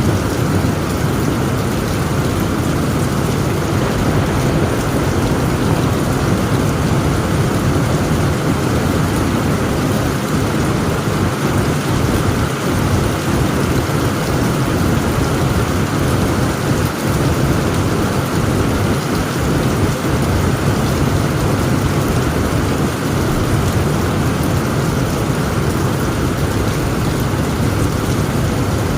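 Heavy rain drumming steadily on a tent roof, with a deep low rumble underneath.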